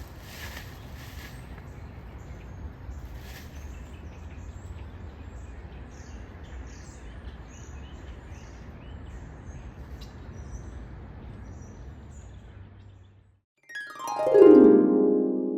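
Outdoor ambience: small birds chirping faintly over a low steady rumble. Near the end it cuts off, and a short music sting comes in loud, a quick run of notes falling in pitch.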